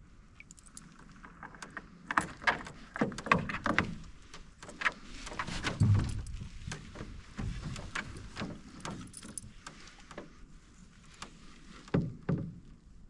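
Knocks, clunks and creaks from a canoe being paddled: the paddle bumping the hull and the boat creaking, in an irregular run of knocks that is busiest early on, with a low thud about six seconds in.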